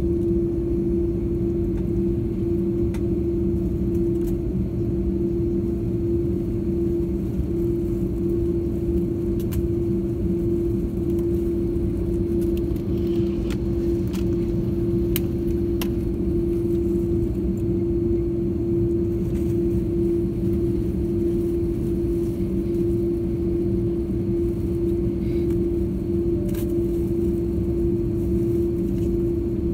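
Steady jet engine drone heard from inside an airliner cabin, with a strong constant hum tone over a wide rushing noise and a few faint clicks.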